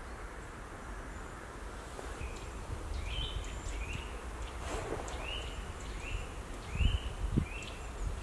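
A bird calling repeatedly, about six short rising chirps spaced a little over half a second apart, over steady outdoor background noise. A couple of low thumps come near the end.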